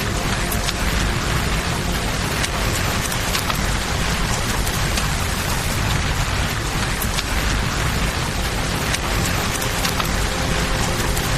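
Steady rain mixed with a flowing river and a crackling campfire, with sharp pops here and there over a low, constant rumble.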